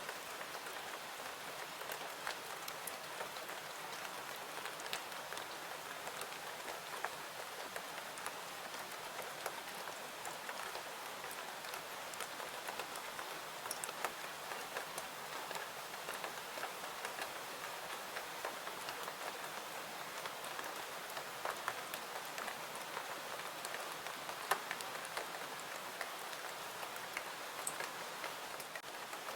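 Steady rain falling, with many small sharp ticks and pops scattered through it; the loudest pop comes near the end.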